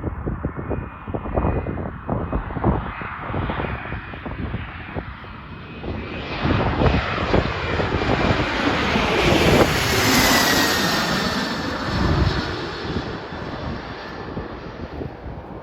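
Learjet business jet passing close by, its turbofan whine building to a peak about ten seconds in and then dropping in pitch as it moves away. Wind buffets the microphone in the first few seconds.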